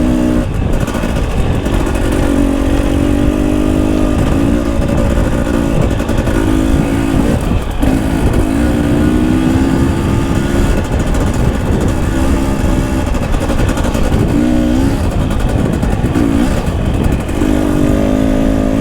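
Husqvarna enduro dirt bike engine on the move, the throttle opened in spells of a second or two and rolled off between them, over a constant rushing noise.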